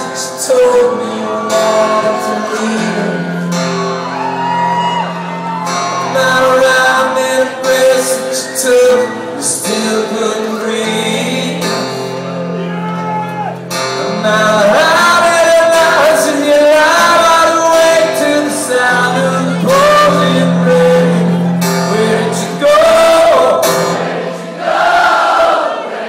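Live acoustic rock performance in a large hall: singing over long, held low chords.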